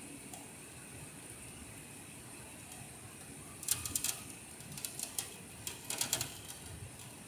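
Steady hiss of rain over the street, with three quick clusters of sharp ticking clicks starting about halfway in.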